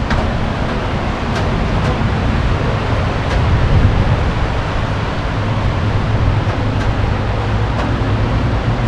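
Rain falling with road traffic running on wet streets: a steady hiss over a low rumble, with a few faint ticks now and then.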